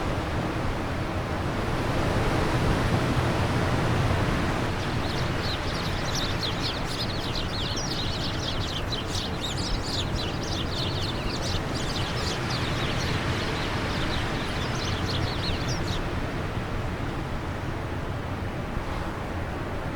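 Wind blowing steadily, swelling slightly early on, with a bird singing a long run of quick high chirps from about five seconds in until about sixteen seconds.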